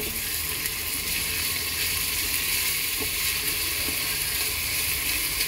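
Food sizzling steadily in hot oil in a cooking pan, with two faint clicks a little past halfway.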